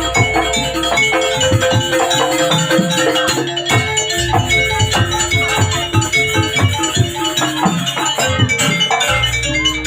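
Live jaranan accompaniment music: a Javanese gamelan-style ensemble playing rapid drum strokes under held melodic notes and metallophone tones, with a deep low drone that drops out for a while midway and returns.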